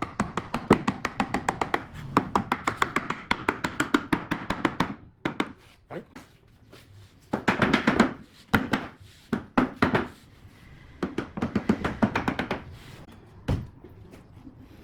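Rapid, sharp tapping: long runs of strikes, several a second, then shorter bursts with pauses between.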